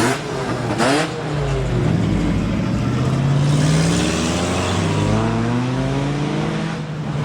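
Car engine revved hard, its pitch climbing and dropping several times, with two short sharp bursts in the first second.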